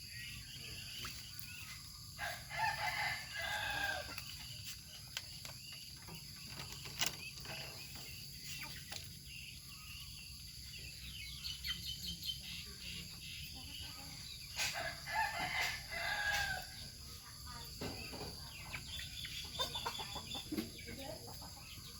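Domestic fowl calling twice, each call lasting about two seconds, one early on and one about halfway through, with scattered sharp clicks in between.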